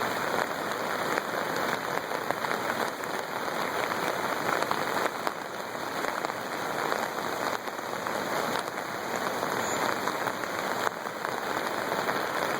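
Steady rush of floodwater on the swollen Fox River, an even hiss with no break.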